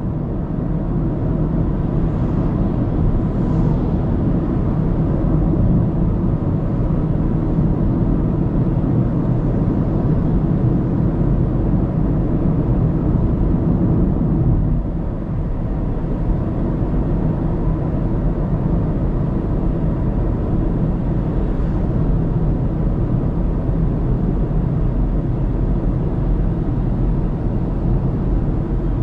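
Steady road noise of a car driving along a highway: tyre and engine rumble, heavy in the low end, easing briefly about halfway through.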